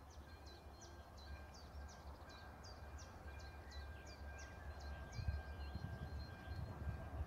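Faint outdoor ambience: a songbird repeating short, high, falling chirps about three times a second for about five seconds, over a low rumble and a faint steady whine.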